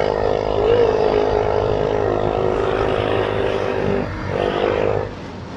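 Motorcycle engine running at a steady pitch while riding. It eases off about four seconds in, picks up again briefly, then drops away near the end.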